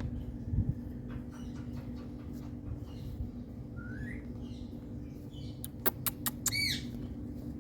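Pet Indian green parrot making small clicks and a short rising chirp, then a few sharp clicks and a brief squawk near the end, over a steady low hum.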